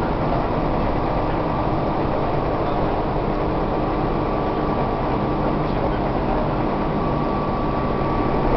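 Tobu 1800 series electric train running at speed, heard from inside a passenger car: a steady rumble of wheels and running gear with a faint steady hum over it.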